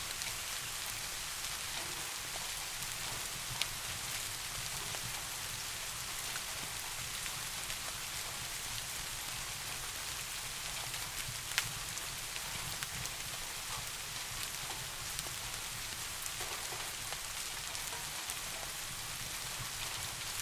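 Steady rain falling, an even hiss with scattered small ticks of drops. Two sharper clicks stand out, a few seconds in and near the middle.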